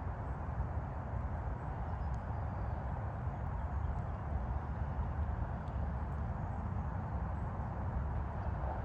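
Steady roar of distant highway traffic, a constant low rumble with a hiss over it, and a few faint high ticks.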